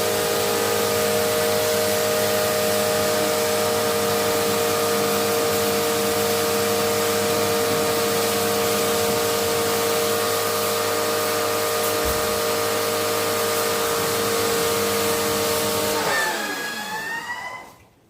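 An electric motor-driven cleaning machine runs steadily with a strong hiss, then winds down, its pitch falling, and stops near the end.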